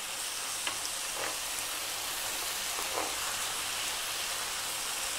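Tomato and vegetable sauce sizzling steadily in a frying pan on medium heat, freshly added crushed tomatoes frying with the onions and peppers. A wooden spoon stirs through it, with a few soft scrapes against the pan.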